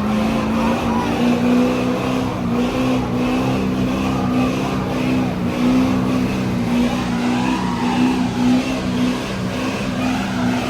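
Truck engine held at high, fairly steady revs that waver slightly, as in a burnout.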